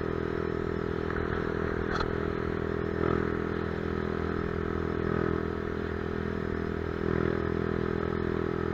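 Yamaha Crypton X single-cylinder four-stroke engine running steadily at idle through a Race Tech Papagiannis titanium exhaust, swelling slightly a few times.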